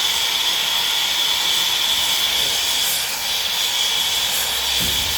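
Steady, loud hiss with a high whistling edge, like air or gas rushing through a nozzle. A faint low rumble comes in partway through, and there is a short low knock near the end.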